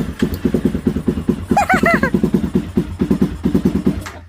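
Honda CBR300R's electric starter cranking the single-cylinder engine in a steady rhythm of about seven pulses a second without it catching, then dying away near the end; the owner puts it down to a bad battery. A brief chirp-like sound comes about halfway.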